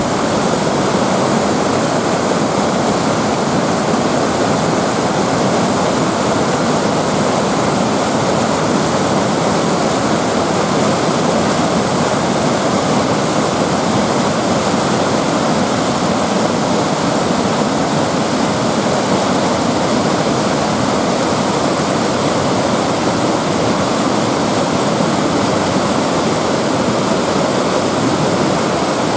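Steady, loud rush of fast-flowing river water over rapids.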